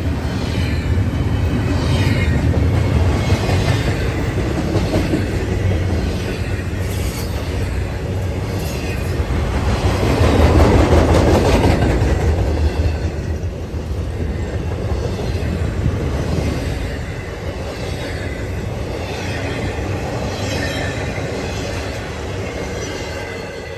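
Intermodal freight train's cars rolling past: a steady rumble with repeated wheel clatter and some wheel squeal, swelling about halfway through, then fading toward the end.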